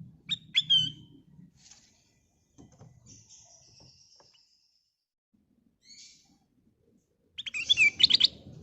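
Kutilang emas, a bulbul, singing in short chirping phrases with a brief high whistle, then a loud rapid burst of chirps near the end.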